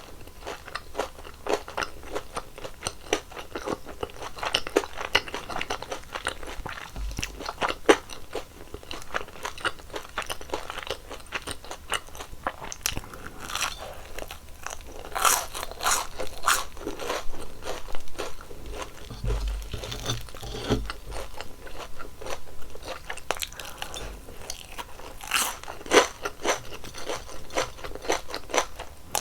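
Close-miked crunching and chewing of crispy fried twisted doughnuts (kkwabaegi): a steady run of sharp crackles from the fried crust, with louder crunchy bites about halfway through and again near the end.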